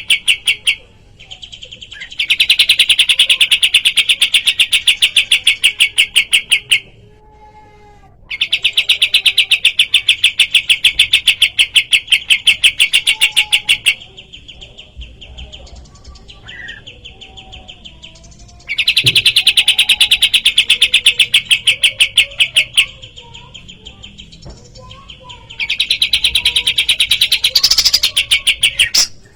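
Kapas tembak (a small Indonesian songbird) calling in long, rapid rattling trills, each bout lasting four to six seconds. Between bouts there are softer, lower chirps.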